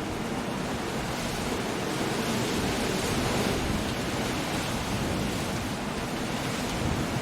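Stormy sea on a rocky coast: surf rushing steadily, with a slow swell of a breaking wave about three seconds in, under wind.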